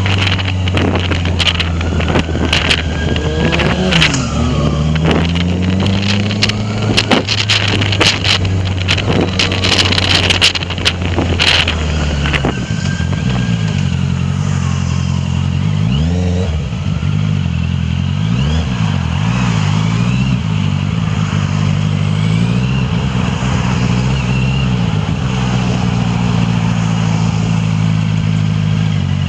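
Honda CBR650F inline-four running through an Akrapovic full exhaust while riding. For the first dozen seconds it holds a steady note under gusts of wind noise on the microphone. Then the engine pitch rises and falls several times with throttle changes before settling steady again.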